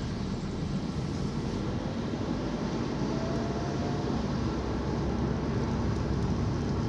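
Steady low rumble of a moving vehicle's engine and road noise, with a faint tone rising slowly in pitch a couple of seconds in.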